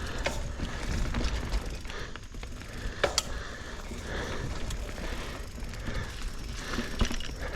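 Mountain bike rattling over rough, wet trail ground: steady clatter of the chain and frame with tyre noise, and sharp knocks about three seconds in and again near the end.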